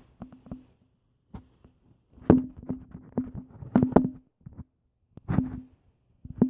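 A string of irregular knocks and clicks, clustered and loudest a couple of seconds in and again near the end, some with a short ring.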